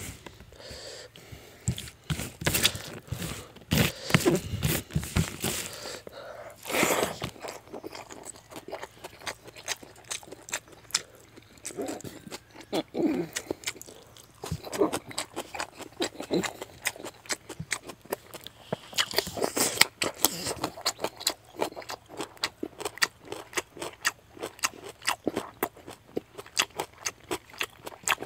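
A person eating rice and fish-head curry by hand: wet chewing and lip-smacking, with many quick mouth clicks that come thicker toward the end.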